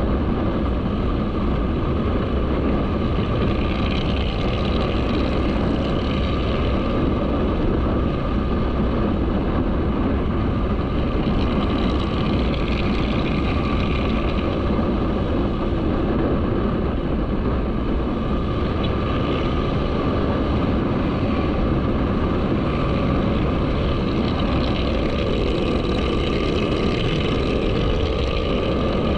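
Motorcycle running at a steady speed while riding, with a constant rush of wind on the microphone.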